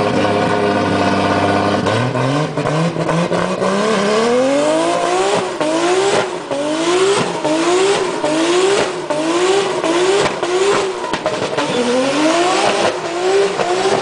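Toyota Supra MA70's turbocharged 2JZ straight-six running steadily, then from about two seconds in revved over and over, the pitch climbing and falling back sharply about every 0.7 seconds with sharp cracks mixed in. The engine is being tested for a misfire.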